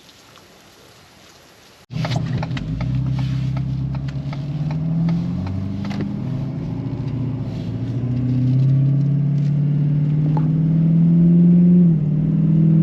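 Faint background for about two seconds, then a motor vehicle's engine running as it drives, its pitch rising and stepping as it speeds up, with a drop in pitch near the end like a gear change.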